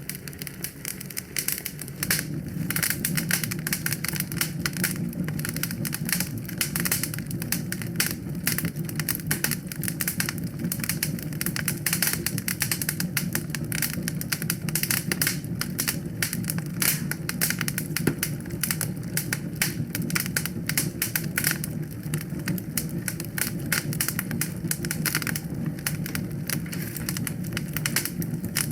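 Wood fire in a fireplace crackling, with dense, irregular sharp snaps and pops over a steady low sound of the flames.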